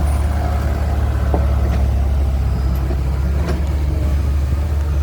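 Kubota M6240 tractor's diesel engine running steadily with a deep, even hum through its aftermarket exhaust pipe.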